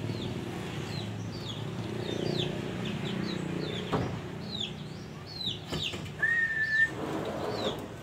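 Birds calling: a run of short, high chirps that fall in pitch, a few each second, and one held whistle about six seconds in, the loudest call. A couple of sharp clicks are heard, the first about four seconds in.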